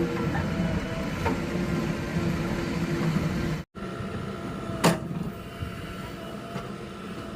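JCB 3DX backhoe loader's diesel engine running steadily, with sharp metallic knocks about a second in and a louder one about five seconds in. The sound cuts out for an instant midway and comes back a little quieter.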